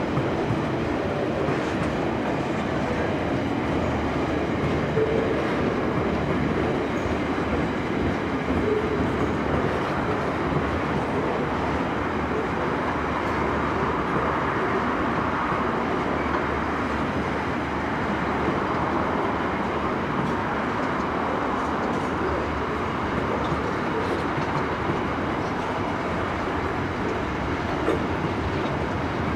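SCT freight train's boxcars rolling past, their steel wheels on the rails making a steady rumble.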